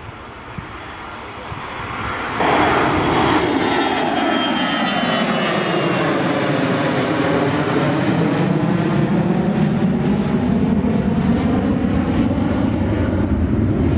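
Fixed-wing airliner's engines passing by, jumping sharply louder a couple of seconds in and then holding loud, with a swooshing sweep that falls and then rises again as the aircraft goes past.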